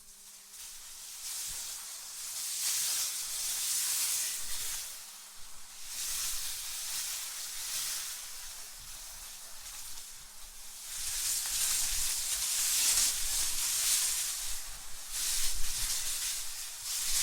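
Wind blowing in gusts, a hissing rush that swells and fades every few seconds, rising out of near quiet in the first second, with low rumbles under the strongest gusts near the end.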